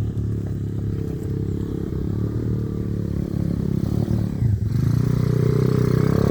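125cc pit bike engine running under load as the bike climbs a steep hill, getting louder toward the end as it comes closer.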